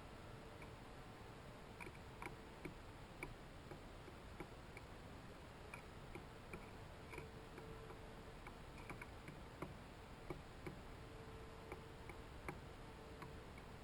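Faint, light clicks and ticks at irregular intervals, as songbirds peck and crack seed at a hanging feeder.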